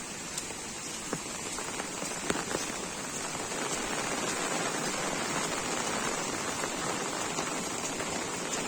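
Heavy rain falling, a steady hiss with single drops ticking close by; the hiss thickens and grows a little louder about three and a half seconds in.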